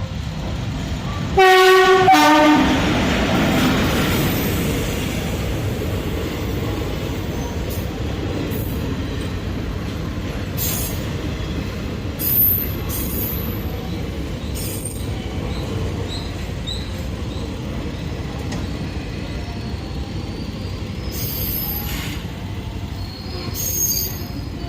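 WAP-4 electric locomotive sounding its horn, one blast and then a shorter lower one about a second and a half in. Then the steady rumble of the locomotive and coaches rolling past, with a few short wheel squeaks.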